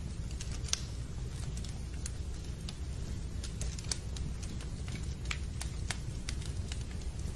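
Fireplace fire crackling: irregular sharp snaps and pops, a few a second, over a steady low rumble.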